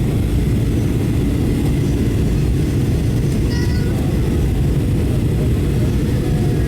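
Boeing 737-800 cabin noise in flight: a steady low rumble of engines and airflow.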